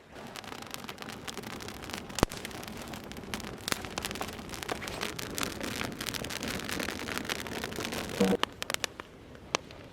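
Wood campfire crackling and popping over a steady hiss, starting abruptly. About eight seconds in there is a short knock, after which the crackle thins to scattered pops.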